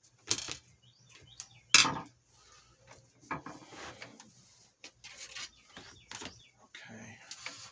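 Plastic parts of a box fan being handled and worked on: irregular knocks, clatter and rubbing, with two sharper knocks in the first two seconds.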